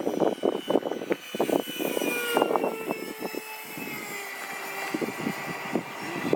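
Electric ducted-fan whine of a Freewing F/A-18 90mm EDF RC jet in flight, its pitch slowly falling. Wind buffets the microphone throughout.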